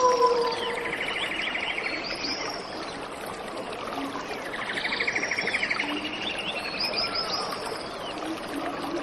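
Birds singing over a steady rush of waterfall water: a phrase of arching whistles followed by a fast trill comes about a second in and again about four seconds later, with more whistled notes near the end. A long, low falling tone fades out in the first half-second.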